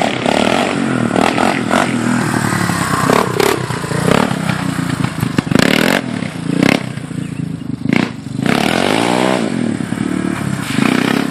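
Yamaha Raptor 350 ATV's single-cylinder four-stroke engine running and being revved, the pitch climbing and dropping off sharply about eight to nine seconds in, with several sharp knocks and clatter along the way.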